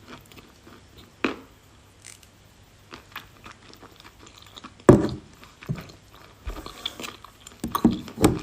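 Close-up biting and chewing of a chunk of edible 'kashtan' clay: a few sharp crunches, the loudest about five seconds in, with a cluster of bites near the end and quieter crumbly chewing between.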